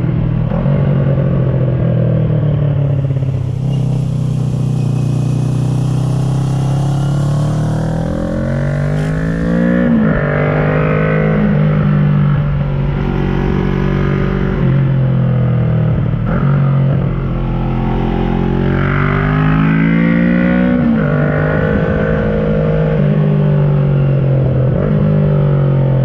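2010 Kawasaki ER-6n parallel-twin engine with an SC Project carbon exhaust, heard from the rider's position while climbing: the revs rise and fall back several times as it pulls through the gears and eases off.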